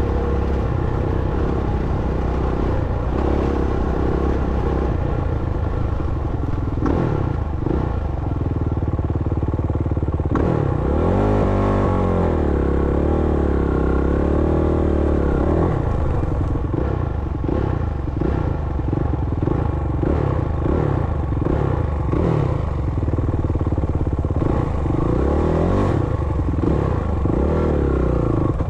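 Dirt bike engine being ridden, its pitch rising and falling again and again as the throttle is opened and closed, over a heavy low rumble and some clatter.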